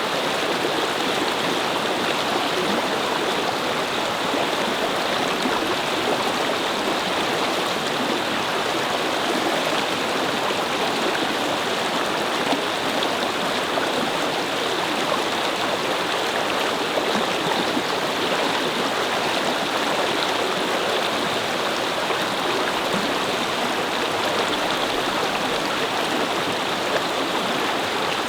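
A small brook babbling: water running and splashing over stones, a steady, even rush.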